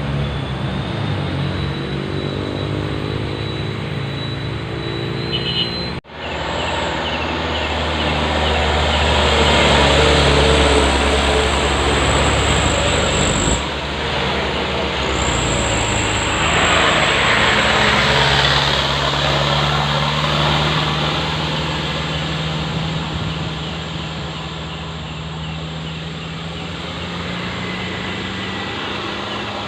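Heavy dump truck diesel engines running under load, with a steady engine drone and tyre and road noise. The sound breaks off sharply about six seconds in, then resumes.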